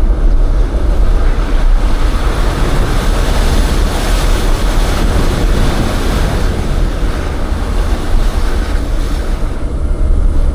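Off-road vehicle driving over loose gravel: the engine running with the steady noise of tyres on gravel, which swells a little about four to six seconds in.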